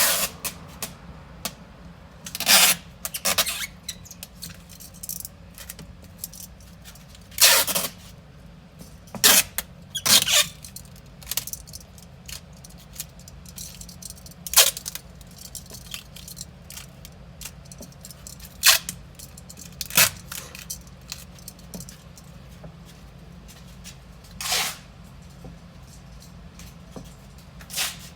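Irregular clicks, scrapes and clatters of tools and small parts being handled during a power window motor repair, with a low steady hum underneath.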